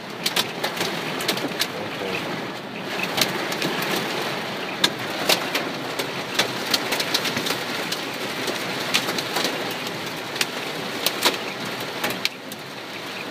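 Rain of a storm that has brought hail pelting a car, heard from inside, a steady hiss with many sharp ticks of individual strikes on the body and glass.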